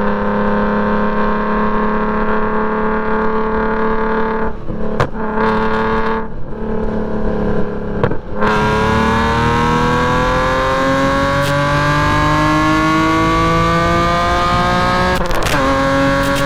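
BMW E46 M3's S54 3.2-litre straight-six with a straight-piped exhaust, running hard on track. The engine note breaks a few times between about four and eight seconds in, then climbs steadily in pitch under full acceleration, drops sharply at an upshift about fifteen seconds in, and climbs again.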